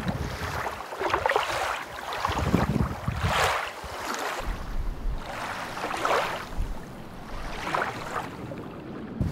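Wind on the microphone and sea water rushing along a sailing yacht's hull while it is under way, swelling in a surge every second or so.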